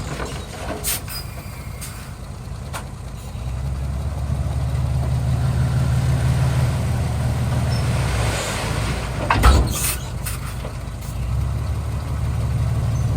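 Small bulldozer's diesel engine running under work, growing louder about three to four seconds in, with a few sharp metallic clanks; the loudest clank comes about two-thirds of the way through.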